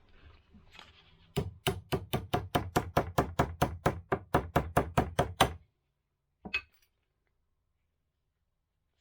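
A rapid, even series of about twenty sharp knocks, some five a second, stopping abruptly, then a single knock a second later.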